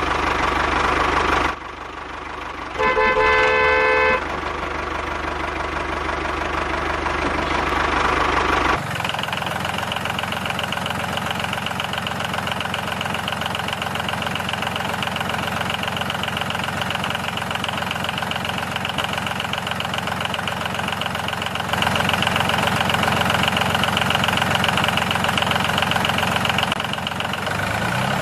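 An engine running steadily, like an idling tractor, with a short horn toot about three seconds in. The engine's tone changes abruptly a few times, as at cuts between clips.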